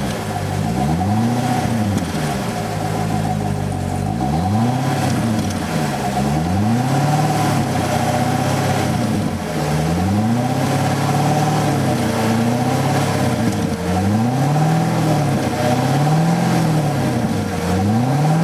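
A 2012 C6 Corvette's V8 on its stock factory exhaust, revved repeatedly while parked: the engine note climbs and falls back toward idle several times in a row.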